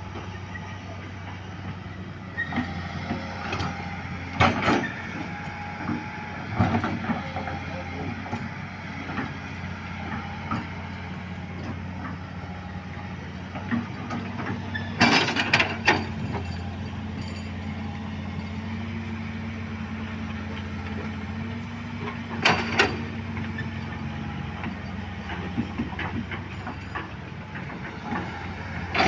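Heavy engine running steadily, with sharp metallic knocks now and then, about four times, the loudest cluster near the middle.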